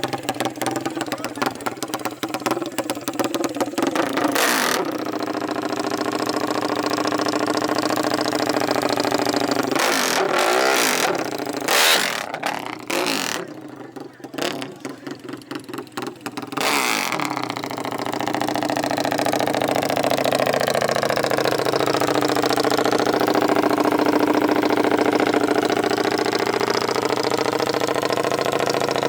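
Off-road racing motorcycle or quad engines revving hard in the first half, with a few sharp loud bursts around the middle. From a little past halfway they settle into a steady run.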